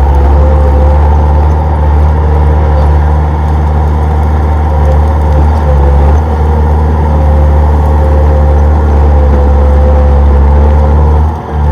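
Komatsu D31P crawler bulldozer's diesel engine running steadily and loudly, with a brief dip in level just before the end.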